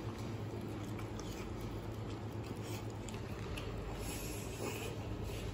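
Close-up chewing and gnawing on a soy-braised pork bone: wet smacking and many small irregular clicks as soft meat and gristle come off the bone. A steady low hum lies under it.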